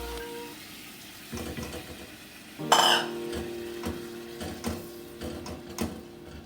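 Marinated chicken being stirred in a cooking pan: a utensil clinks and scrapes against the pan in repeated light strokes, with one loud metallic clang a little under three seconds in.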